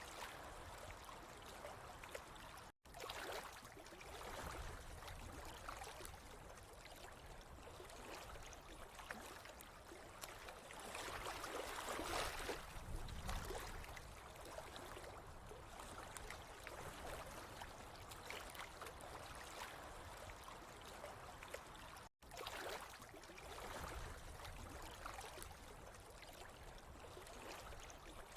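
Running water trickling steadily and faintly, swelling louder about halfway through. The sound cuts out completely for an instant twice.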